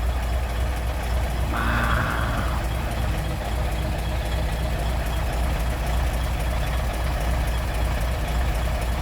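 Fiat 190-48 truck's diesel engine idling with a steady, deep rumble. A brief higher tone sounds over it about two seconds in.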